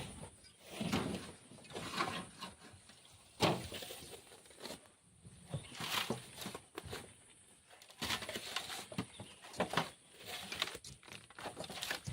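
Manual digging and shovelling of sand: irregular scrapes and thuds of a hand tool working the sand, with one sharper knock about three and a half seconds in.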